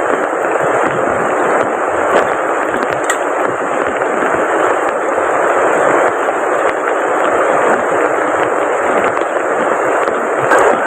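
Heavy rain pouring steadily: a dense, even hiss with faint scattered ticks of drops.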